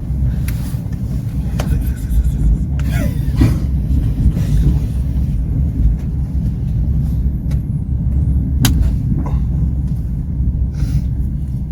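Passenger train running, heard from on board: a steady low rumble of the wheels on the track, with scattered clicks and knocks.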